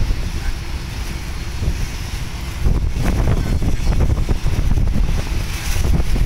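Strong wind buffeting the microphone: a heavy low rumble in gusts, easing for a moment and then picking up again about two and a half seconds in.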